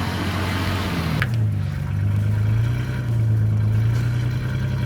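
Motor vehicle engine running steadily under way. A short click comes about a second in, as the engine's hum dips briefly and then climbs back.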